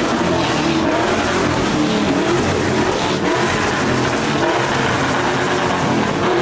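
A truck's engine and exhaust running loud and hard, a dense, continuous racket.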